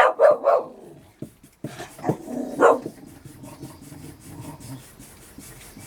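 Dog vocalising: a quick run of short sounds in the first second, then two more about two and three seconds in.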